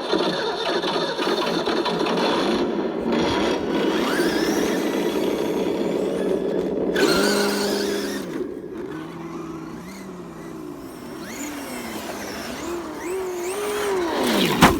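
Traxxas E-Revo RC truck with a brushless motor driving over gravel, its motor sound rising and falling in pitch as it accelerates and slows, over the crunch of tyres on gravel. A sharp knock near the end.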